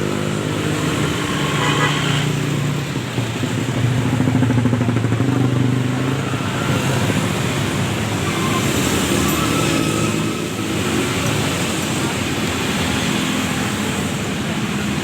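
Motorcycle engines running in nearby road traffic, shifting in pitch as they pass, over a steady traffic noise.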